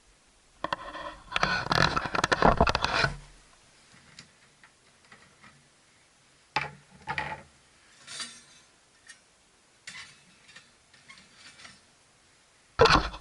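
Small metal pieces being handled: a long burst of clattering and scraping, then scattered sharp clicks and short scrapes, and another loud clatter near the end.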